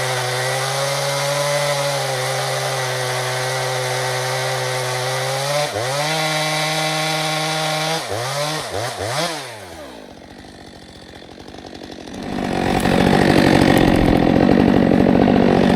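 Stihl 462C chainsaw running at high revs under steady load, dipping briefly partway through. It is then blipped up and down several times before dropping off. From about twelve seconds in, a loud, even rushing noise takes over.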